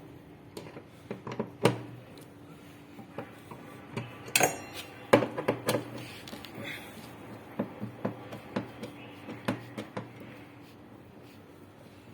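Irregular metallic clinks and knocks of tools and metal parts being handled during a washing-machine clutch repair, with a cluster of quick clatters about four to six seconds in.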